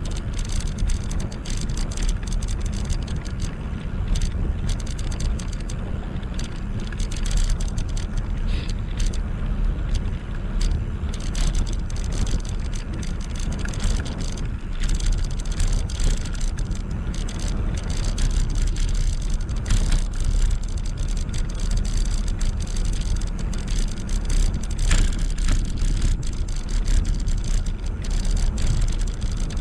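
Riding noise from a Gtech e-bike filmed on a GoPro: a steady low wind rumble on the microphone over tyre and road noise, with many small rattles and clicks.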